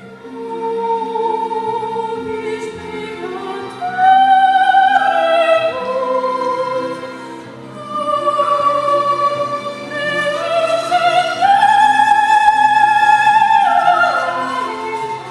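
Operatic singing by a high voice with vibrato over sustained instrumental accompaniment, the melody climbing to a long held high note that ends near the close.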